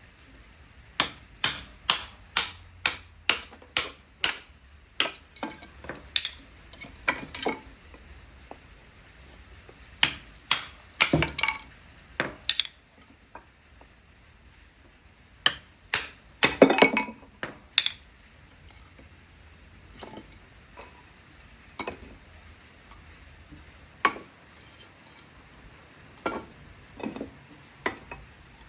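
Chopping: a run of sharp knocks at about two or three a second, followed by irregular knocks and clattering, as of food or utensils being handled.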